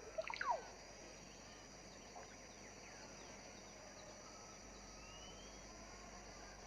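Faint woodland ambience: a steady high-pitched insect drone, with a few quick falling bird notes in the first half second and a faint rising whistle about five seconds in.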